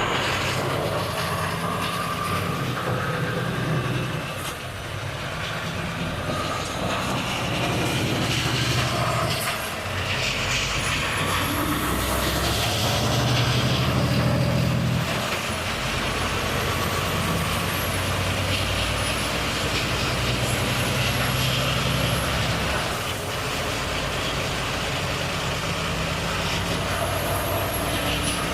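Volvo FH truck's engine running under way, its note dropping and picking up again several times as the truck changes gear and speed, with a faint high whistle over it for much of the time.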